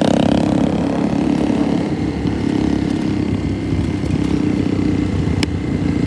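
Motorcycle engine running steadily, with a single sharp click about five and a half seconds in.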